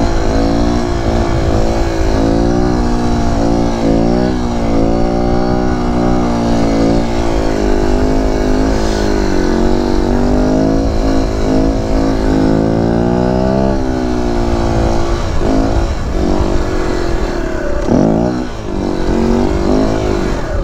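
Kawasaki Z125 Pro's 125 cc single-cylinder four-stroke engine revving under throttle, its pitch rising and falling as the bike is held up in a wheelie. Near the end the revs drop sharply and pick back up. Wind rushes over the helmet-mounted microphone.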